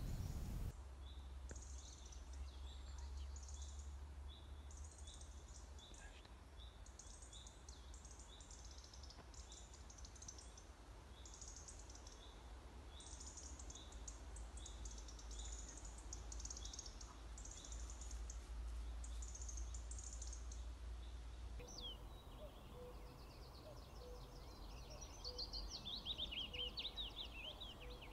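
Wild birds singing: short, evenly repeated high notes with bursts of higher twittering, over a steady low rumble. About twenty seconds in the birdsong changes to a soft note repeated a little more than once a second and a quick run of high notes falling in pitch.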